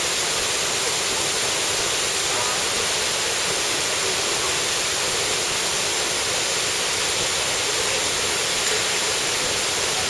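Nachi Falls waterfall pouring: a steady, even rush of falling water with no breaks.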